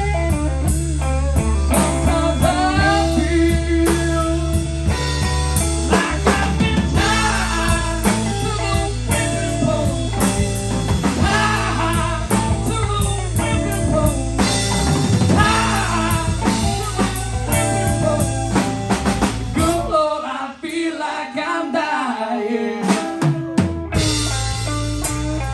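Live rock band playing a blues-rock jam: a lead line with bending notes over bass and drum kit. The bass drops out for a few seconds near the end, then comes back.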